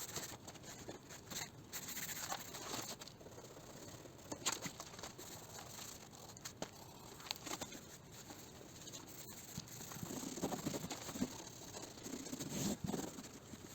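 Hand sanding on a car's primered panel: sandpaper scraping in irregular strokes, with scattered clicks.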